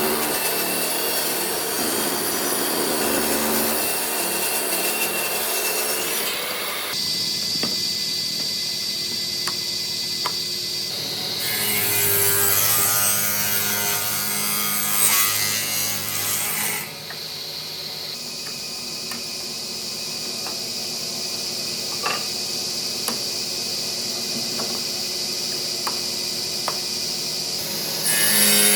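Power tools working wood, with a steady high whine running under the noise of the tool against the wood. The sound changes abruptly every few seconds, as one short shot of tool work gives way to the next.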